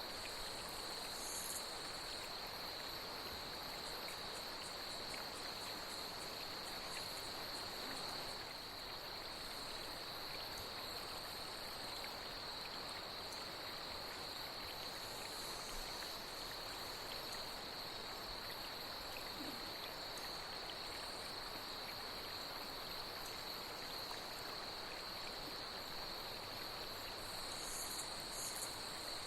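Night insects chirring in one steady high band over the even rush of flowing water. A few brief higher calls break in about a second in and near the end.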